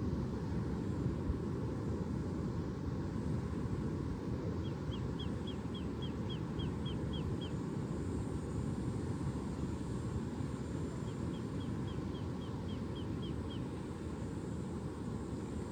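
A small bird twice gives a run of about ten quick, short, downward-slurred high chirps, over a steady low outdoor rumble.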